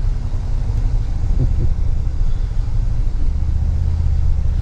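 Toyota Tundra crawling along an off-road trail, heard from inside the cab as a steady low rumble of engine and drivetrain.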